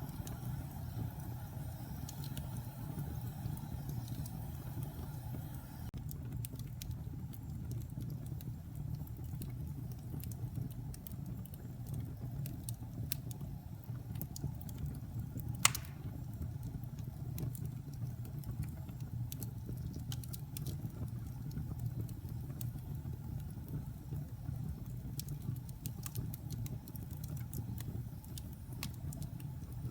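Wood logs burning in a fireplace: a steady low rumble of the flames with scattered small crackles, and one loud sharp pop about halfway through.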